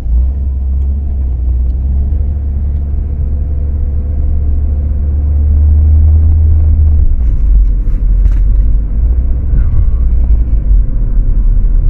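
Deep, steady rumble of a 2012 Ford Focus being driven on a road test, its low drone changing about seven seconds in.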